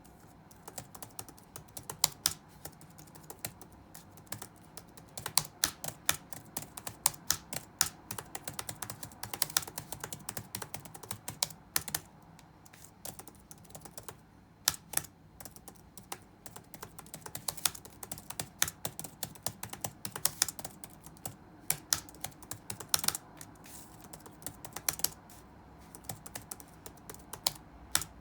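Touch-typing on a computer keyboard: irregular runs of quick key clicks broken by short pauses, with some noticeably louder keystrokes, over a faint steady low background hum.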